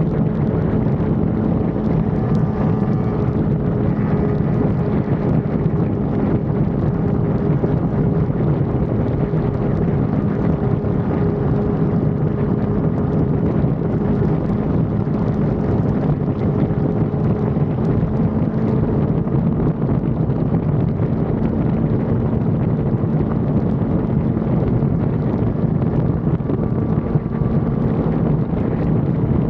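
Sport motorcycle engine running at a steady speed under heavy wind noise on the microphone, as heard while riding.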